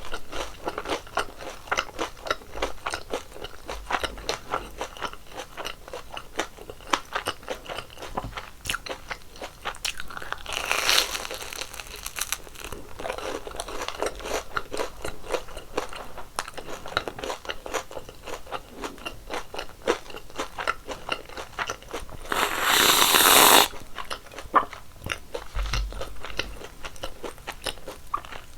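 Close-miked crunching and chewing of crispy fried twisted doughnuts (kkwabaegi): a steady stream of small crisp crunches. A louder burst lasting about a second comes about three-quarters of the way through.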